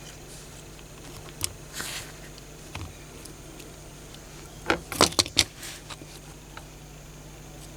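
Small metal parts and tools being handled on a workbench, clicking and clinking. One sharp click and a short hiss come early, and a quick run of four or five loud clicks comes near the middle.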